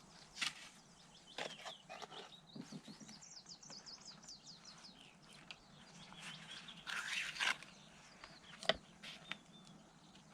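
A small bird chirping in a quick run of short notes a few seconds in, with scattered knocks and scrapes nearby; the loudest comes near the end.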